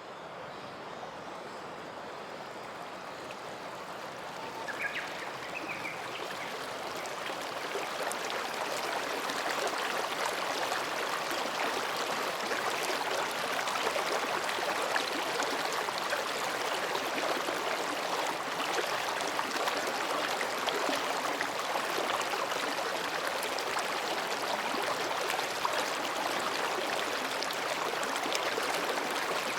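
Mountain stream flowing between rocks: a steady babbling rush of water, swelling over the first ten seconds or so. A bird chirps briefly about five seconds in.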